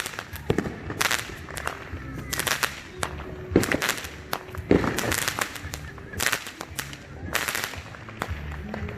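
Fireworks going off: repeated sharp cracks and pops, several in quick clusters about every second, over a low rumble.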